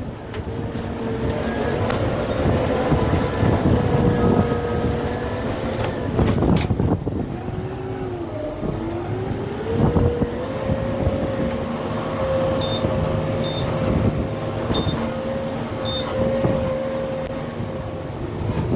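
Kubota M6-141 tractor's diesel engine running under load. Its pitch sags about midway, as if lugging, then picks back up, with several sharp cracks and knocks over it.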